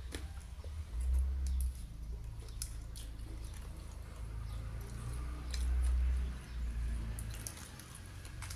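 Close-miked chewing and mouth sounds of a person eating rice and fried food, with scattered small clicks over a low rumble that swells loudest about a second in and again about six seconds in.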